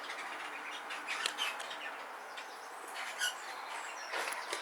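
A flock of exhibition budgerigars chattering, with many short overlapping chirps and warbles.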